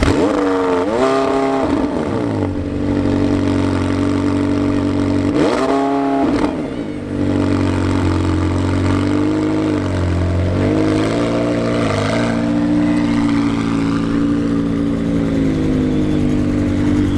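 McLaren 720S's twin-turbo V8 just after a cold start, running at a high idle. It revs up and back down twice in the first seven seconds and swells slightly twice more, then settles to a steady idle.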